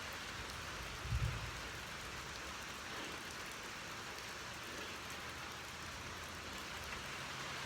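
Steady rain falling, an even hiss, with a brief low thump about a second in.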